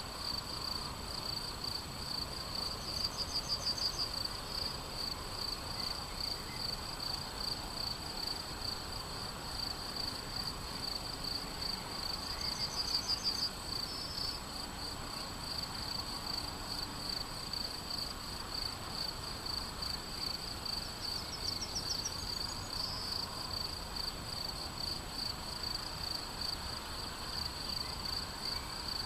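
Crickets chirping steadily in a fast, even pulse. A bird sings a short, rapid trill three times, about nine seconds apart.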